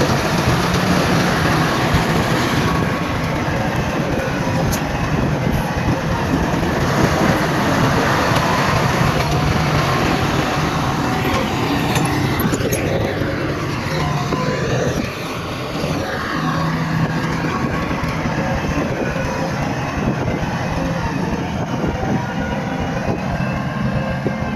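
Heavy diesel earthmoving machinery running steadily, with a low engine hum and a continuous mechanical noise; the level dips briefly about fifteen seconds in.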